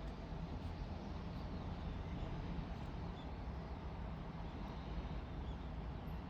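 Steady low background rumble, with a few faint, short high chirps.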